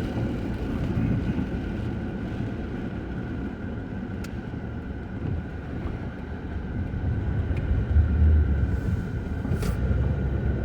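Steady low rumble of vehicle road noise, growing louder from about eight seconds in.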